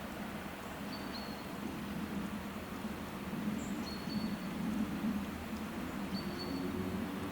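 Outdoor nature ambience: a steady wash of noise with a short, high, level chirp heard three times, about two to three seconds apart.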